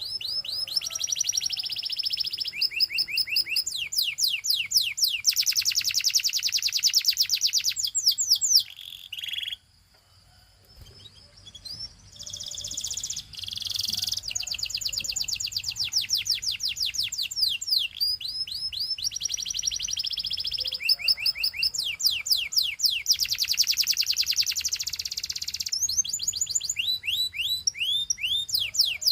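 Canary singing: phrase after phrase of fast trills made of rapidly repeated high notes, with a brief pause about ten seconds in.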